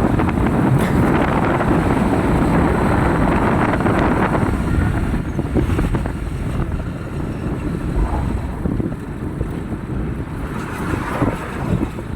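Steady vehicle noise with wind buffeting the microphone, fuller and louder for the first four seconds or so, then easing to a lower rumble.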